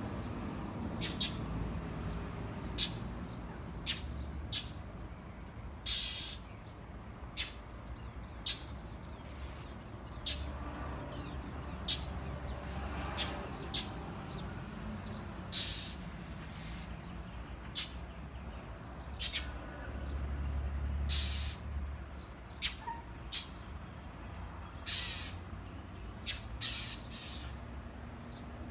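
Birds calling: short, sharp high-pitched calls repeating at irregular intervals of about a second, a few of them longer and harsher, over a low steady rumble.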